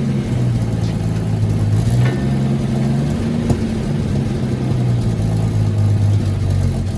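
Old Ford F-Series truck's engine running at a steady idle, its speed shifting slightly a couple of times.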